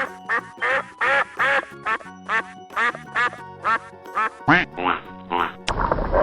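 Duck quacking over and over, about two to three quacks a second, with background music underneath. Near the end a louder, longer animal call of a different kind cuts in.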